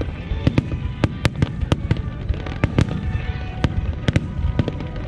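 A starmine fireworks barrage: shells bursting in quick succession, several sharp bangs a second over a continuous low rumble.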